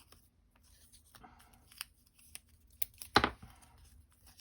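Tape being pulled and torn off to fix paper down, with light clicks and paper rustles; the loudest is a short tearing rip about three seconds in.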